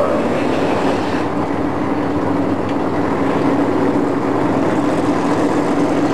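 Chevrolet Chevelle's V8 held at steady high revs during a burnout, its rear tyres spinning in a cloud of smoke.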